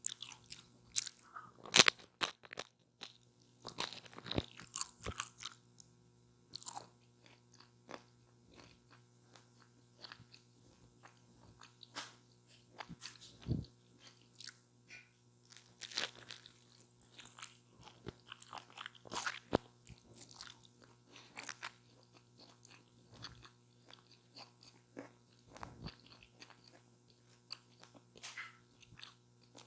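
Close-miked biting and chewing of a chicken taco with lettuce and tomato: crisp, irregular crunches, a dense run of louder bites in the first few seconds, then slower, quieter chewing.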